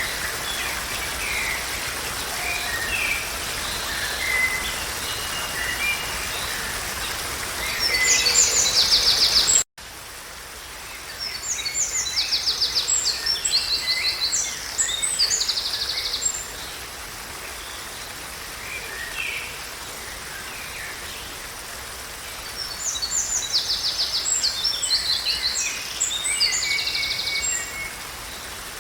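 Songbirds singing over a steady background hiss: scattered chirps and bursts of rapid high trills. About ten seconds in the sound cuts off abruptly for a moment and resumes over a quieter background, where the trilling songs come twice more.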